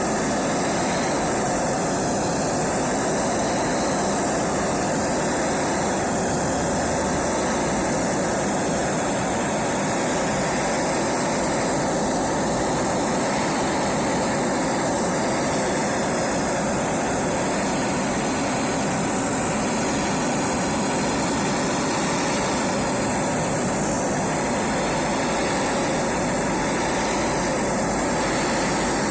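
A power tool running steadily and continuously with a loud, even whirring noise.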